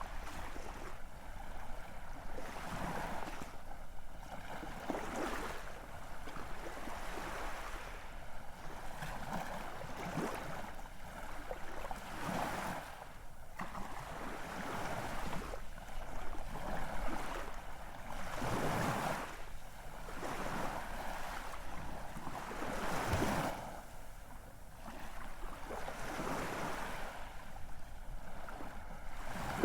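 Ocean waves breaking and washing in, surging and falling back every few seconds; the strongest breakers come about two-thirds of the way through.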